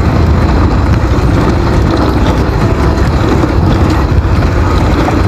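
Motorcycle on the move over a rough road: the engine running under a steady, heavy rumble of wind and road noise on the microphone.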